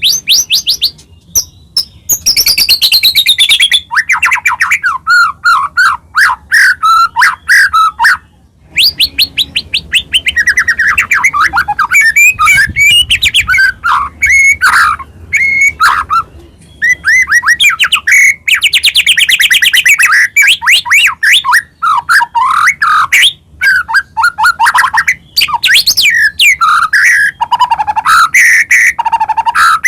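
White-rumped shama (murai batu) singing a loud, fast, almost unbroken song of varied whistles, sweeping notes and rapid trills, the 'full isian' song packed with mimicked phrases.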